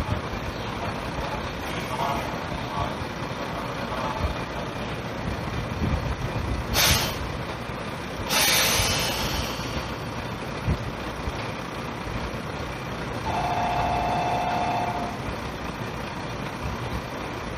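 A JR Central 313 series electric train standing at the platform with a steady hum, giving two sharp hisses of released air about seven and eight seconds in, the second one longer. About thirteen seconds in a steady two-note electronic tone sounds for nearly two seconds.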